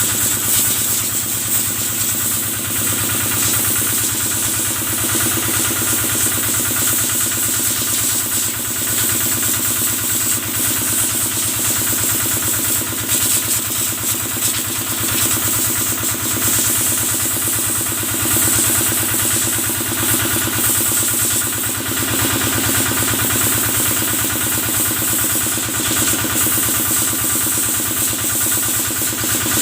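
Kubota engine running steadily at a constant speed, driving the pump of a cattle-washing sprayer, with a steady hiss over the engine note.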